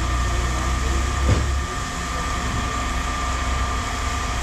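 Steady low machine drone with a constant whine over it, and a single knock about a second and a half in.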